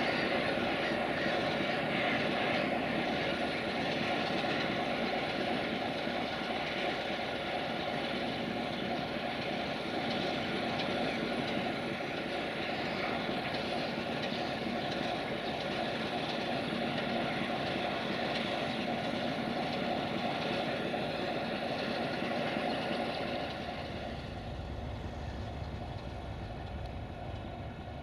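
Freight train of tank wagons rolling away on jointed track, with the steady drone of its distant diesel locomotive, slowly fading. About 23 seconds in the sound drops and only a low rumble is left.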